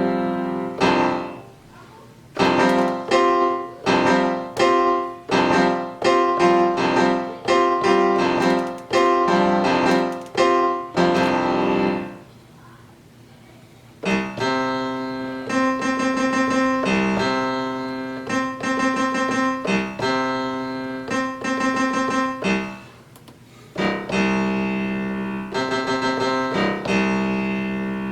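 Piano-type keyboard sound playing a run of struck chords, each press of a Maschine pad sounding a whole chord in keyboard (chord) mode. The chords come in phrases with short pauses about a second in, around twelve seconds in and near twenty-three seconds.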